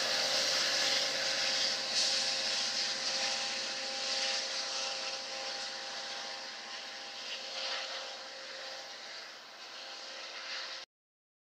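Amtrak Capitol Corridor passenger train rolling past on the rails, a steady rushing hiss with a faint steady whine in it, slowly fading as the train moves away. The sound cuts off abruptly near the end.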